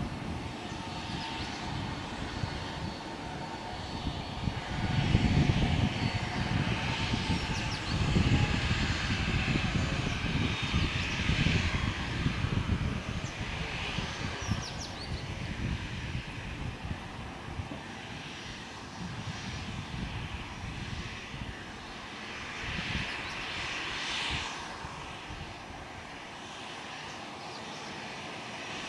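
Boeing 737-900ER's CFM56 turbofan engines running steadily, heard as a continuous jet hiss with an uneven low rumble that swells about five and eight seconds in, then eases off.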